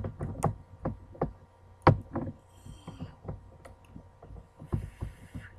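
Irregular knocks, clicks and short rustles of hands working a stitch marker onto a stitch on a knitting loom close to the microphone, the sharpest knocks at the start and about two seconds in.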